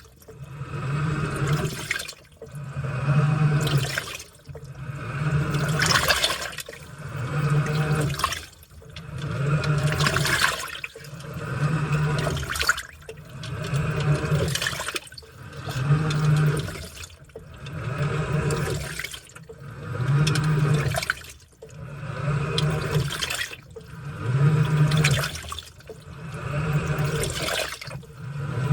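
Washing machine in its wash cycle: water and laundry sloshing in regular surges about every two seconds, each stroke carrying a low motor hum, as the drive turns the load back and forth.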